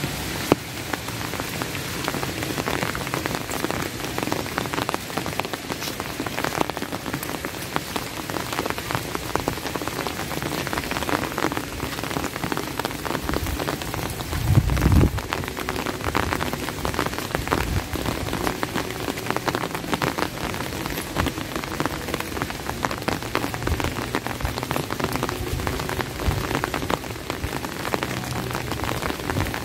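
Steady rain falling, with a dense run of close individual drop hits. A short, low thump comes about halfway through.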